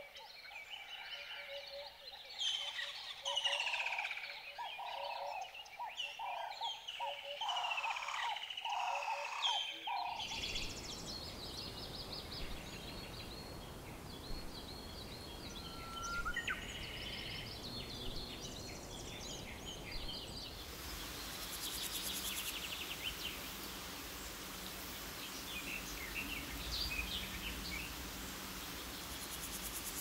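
Several birds chirping and calling over a steady hiss of forest ambience, with a repeated call note about twice a second early on. The ambience changes abruptly twice, as at cuts between separate recordings.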